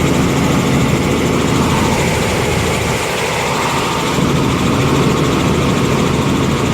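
Helicopter engine and rotor running steadily, a loud constant drone.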